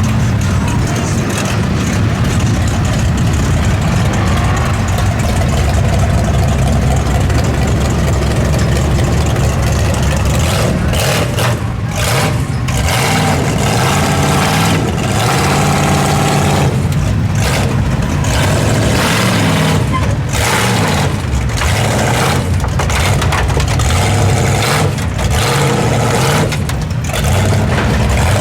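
Mud truck engine running loud, its pitch shifting up and down as it revs.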